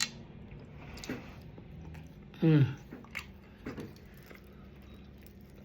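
Soft chewing and mouth clicks from eating, with one short, falling vocal hum about two and a half seconds in.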